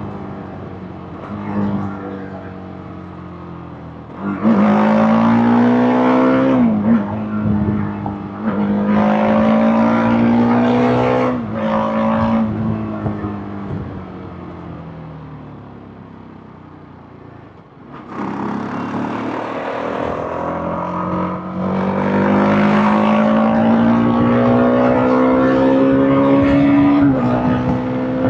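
TVS Apache RR310's single-cylinder engine and exhaust under hard acceleration, the pitch rising through each gear and dropping at each upshift. It pulls hard about four seconds in and again around eight seconds, then the throttle is eased and the engine note falls for several seconds. Near the end it pulls through a long gear once more before another shift.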